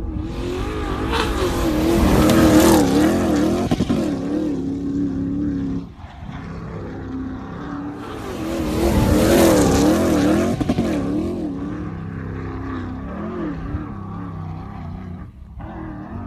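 Lexus V8 engine in a Toyota Hilux revving hard in two long surges, the second starting about halfway through, its pitch wavering quickly up and down as the revs rise and fall, with lower steady running between and after.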